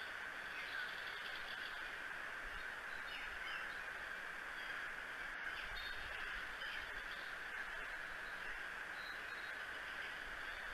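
Outdoor ambience from a nest camera: a steady hiss with scattered short bird calls in the distance.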